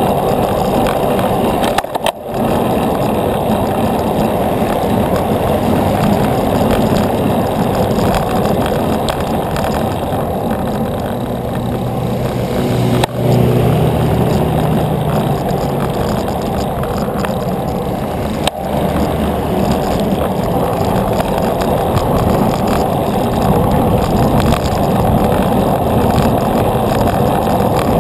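Steady rush of wind and road noise on the microphone of a moving bicycle. About halfway through, a motor vehicle passes with a low engine hum that fades a few seconds later.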